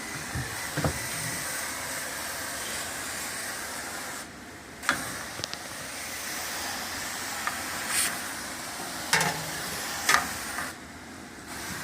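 Pressurized cleaning spray hissing steadily, cut off briefly twice, with a few short knocks.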